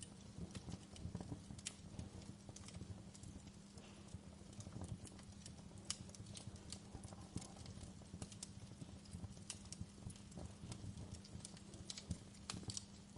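Wood fire crackling in a fireplace: irregular pops and snaps over a low rumble of burning, with a faint steady low hum underneath.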